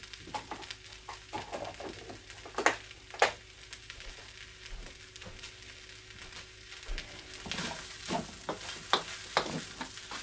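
Fried rice with chicken and shrimp sizzling in a wok, a steady hiss, with two sharp knocks about a third of the way in. Near the end, a wooden spatula scrapes and clatters as it stirs the rice.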